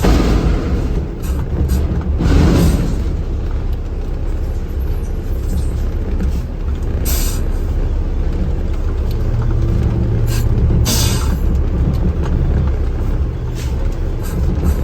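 Heavy truck driving, its engine and road noise making a steady low rumble inside the cab, with several short hissing bursts along the way.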